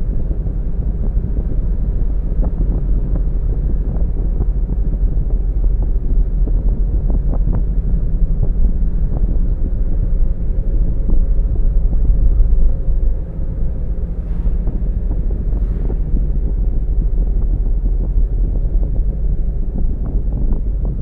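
A car driving along a road, giving a steady low rumble of tyre and wind noise scattered with small ticks.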